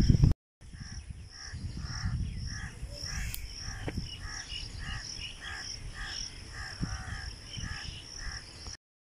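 Rural outdoor ambience: a bird calling over and over in a steady series, about two short calls a second. Under it run a high, steady chirring of crickets or other insects and a low rumble.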